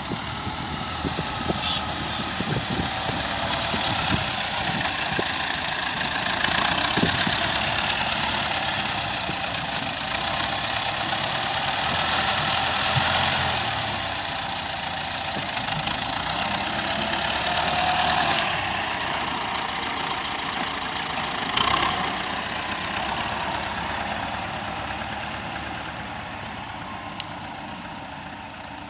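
T-40 wheeled tractor's diesel engine running, swelling and easing off in level, with a few knocks near the start, and fading away over the last few seconds.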